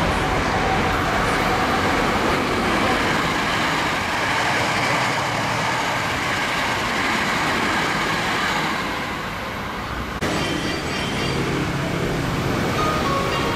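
A Hankyu 9300-series electric train passing through a station at speed, with a steady rumble of wheels on rail and traction motors that dies down slightly about nine seconds in. After an abrupt cut about ten seconds in, another train is heard approaching.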